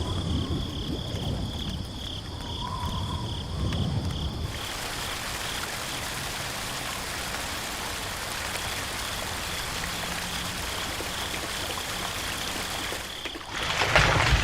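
Water running steadily, setting in about four and a half seconds in after a low rumble, with a louder splash-like surge near the end.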